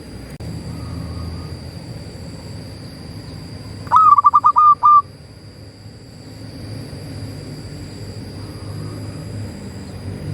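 Zebra dove (perkutut) cooing: one quick run of about eight short notes, a little over a second long, about four seconds in. Fainter calls of the same kind come near the start and near the end, over a steady low rumble.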